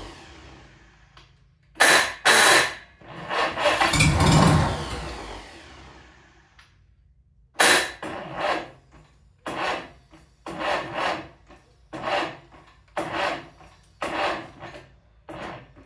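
Freshly rebuilt Cub Lo-Boy tractor engine on its first run: two short revs, then a longer burst that dies away. After that comes a regular series of short rasping sounds, roughly one a second.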